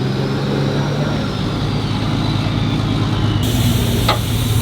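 Truck engine running steadily at low speed, with a single sharp click about four seconds in.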